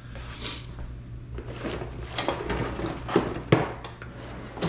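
Tools and small parts being handled and set down on a work surface: a run of light knocks and clatters, the sharpest about three and a half seconds in, over a steady low hum.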